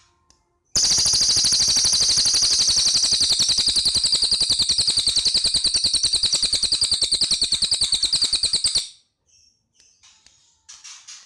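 Cililin bird singing: a loud, very rapid trill of evenly repeated notes held for about eight seconds, then breaking off into short soft chirps.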